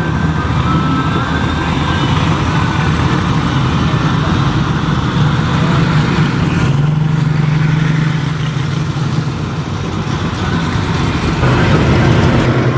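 A car engine running steadily close by, its low hum holding an even pitch with a slight shift partway through.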